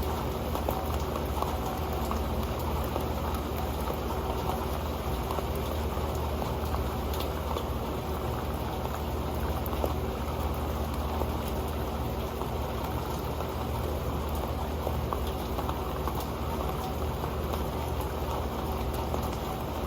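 Rain falling steadily onto an old pan: a dense, even patter of drops ticking on it.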